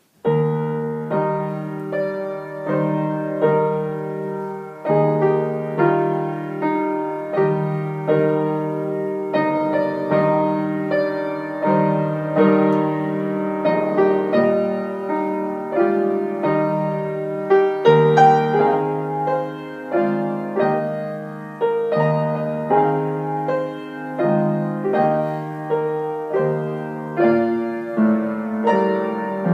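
A gentle piano piece, with chords struck about once a second and left to ring.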